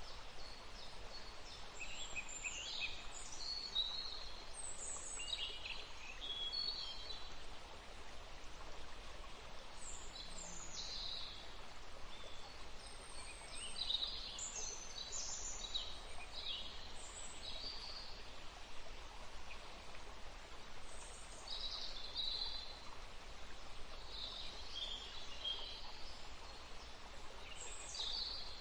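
Songbirds chirping and trilling in short bursts, over the steady sound of running water.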